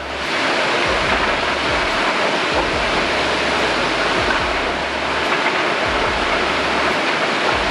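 Floodwater rushing steadily through a breached dam.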